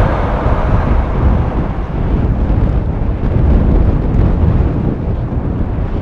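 Strong blizzard wind gusting against the microphone: a loud, uneven low rumble.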